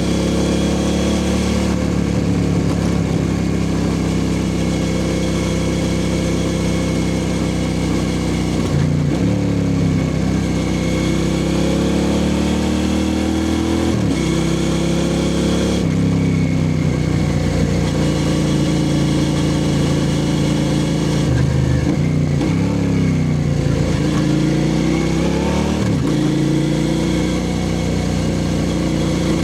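2003 Suzuki SV650S V-twin engine through a Lextek exhaust with no dB killer, running loud. Its revs climb and then drop off sharply several times.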